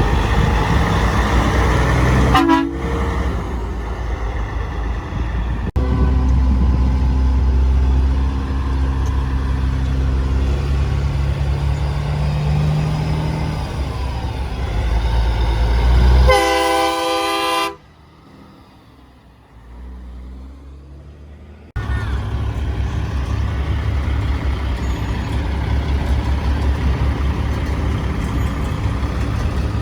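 Big diesel truck engines running with a heavy low rumble, one of them revving up slowly. A truck air horn gives one blast of about a second just past the middle, then the sound drops away for a few seconds before the engines return suddenly.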